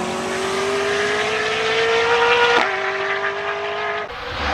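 Koenigsegg Jesko's twin-turbocharged 5.0-litre V8 accelerating hard, its pitch climbing steadily. It drops sharply with a quick upshift about two and a half seconds in, then climbs again until the sound cuts off suddenly about four seconds in.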